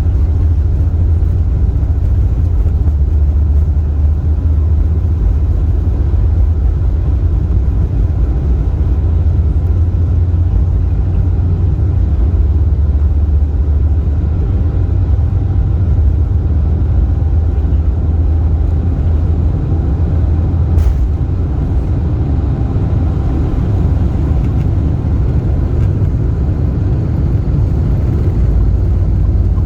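Lufthansa Boeing 747-8 airliner with its engines running: a steady low rumble with a faint steady whine above it, and one short click partway through.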